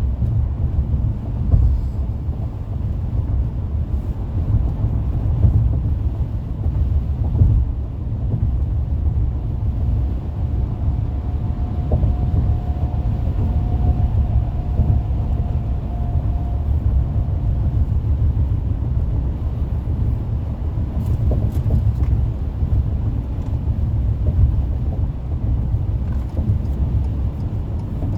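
Car road noise at freeway speed: a steady low rumble of tyres and engine. A faint thin hum comes in about halfway through and fades after several seconds.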